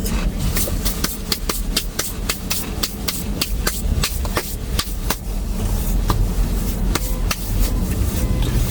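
An irregular series of sharp ticks or taps, a few a second, over a steady low rumble.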